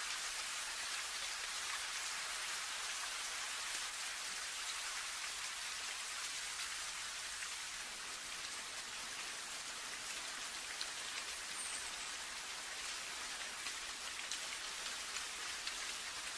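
Steady rain falling, an even hiss with the faint ticks of single drops.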